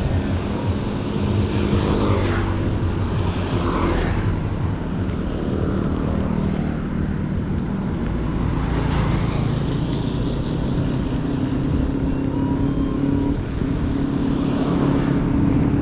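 Steady road noise of tyres rolling on pavement, mixed with the hum of motor vehicles. A low droning tone comes in about halfway through and holds.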